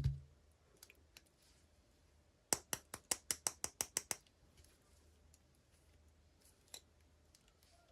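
A quick run of about ten sharp clicks, some six a second, then a few faint ticks, from small parts being handled during a toy unboxing.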